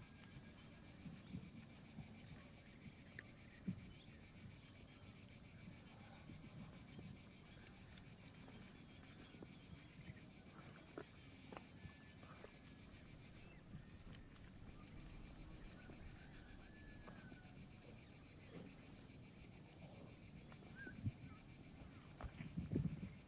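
Steady, high-pitched chorus of insects, cutting out for about a second near the middle, over faint low rustling and scraping.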